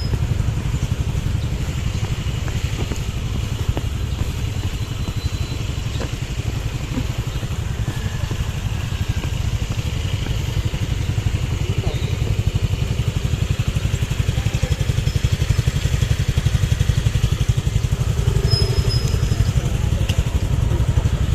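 Motorcycle engine running steadily with a low, rapid, even pulse, as heard while the bike is ridden.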